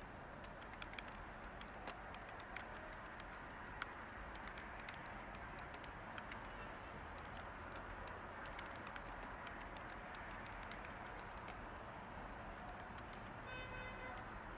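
Light typing on a computer keyboard: scattered keystroke clicks, busiest in the first few seconds and sparser after, over a steady hiss of background white noise.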